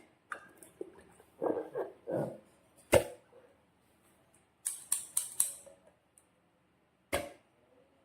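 Close-up handling of slime and balloon-making materials: a few soft squishy, squelching sounds, several sharp clicks, and a short run of high crackles about five seconds in, with quiet gaps between.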